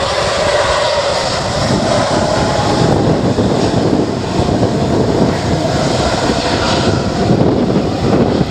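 Fixed-wing aircraft engines running loud and steady; a held tone for the first three seconds or so gives way to a broad, rough rumble.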